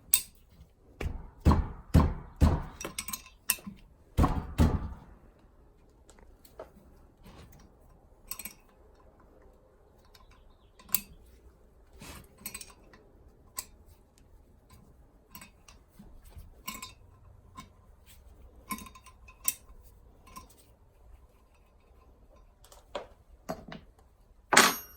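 Wrenches and other hand tools clinking and knocking on a steering knuckle while fittings and bolts are worked off it: a cluster of heavy metallic knocks in the first few seconds, then scattered lighter clicks and clinks.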